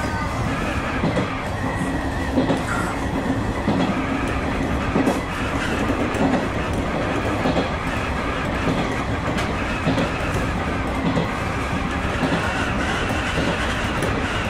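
Electric train running along the track, heard from inside at the front of the train. There is a steady rumble of wheels on rail, with scattered clicks as the wheels pass over rail joints.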